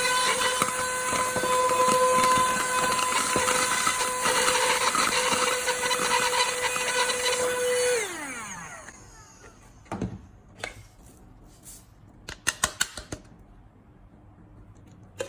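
Handheld rechargeable 120-watt car vacuum cleaner running with a steady motor whine, then switched off about eight seconds in, its pitch falling as the motor winds down. A few clicks and knocks follow near the end.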